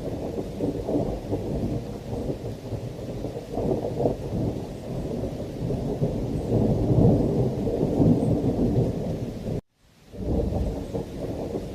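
Thunderstorm ambience: continuous rolling thunder with rain, heaviest and loudest about two-thirds of the way through. Near the end the sound cuts out for a split second and then comes back.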